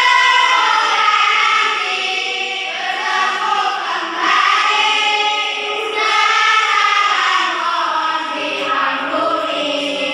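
Children's choir singing, with long held notes and new phrases starting about four and six seconds in.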